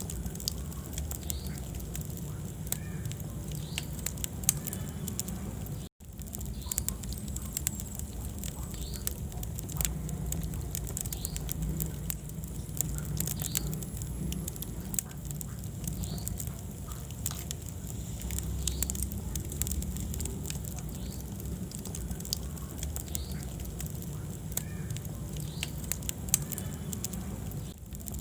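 Wood fire burning in a fireplace: frequent sharp crackles and pops over a steady low rumble of the flames. The sound cuts out briefly about six seconds in.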